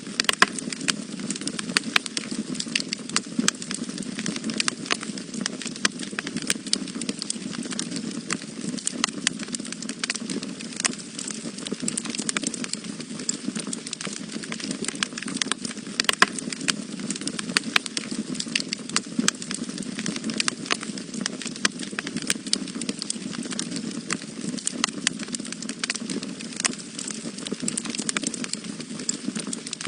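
Wood fire burning in a fireplace: frequent sharp, irregular crackles and pops over a steady low rush of flames.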